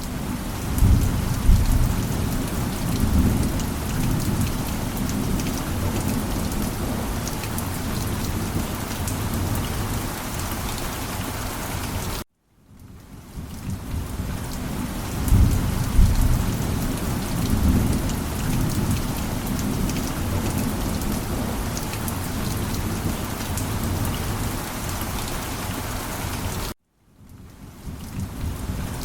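Heavy rain falling steadily, with low thunder rumbling near the start and again about halfway through. Twice the sound cuts off suddenly to brief silence and fades back in.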